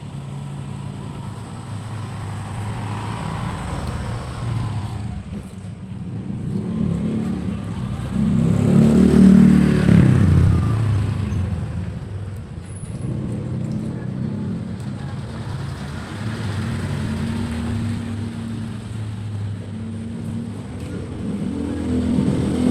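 Motor vehicle engine noise, a steady low hum that swells to its loudest about nine seconds in and then eases off.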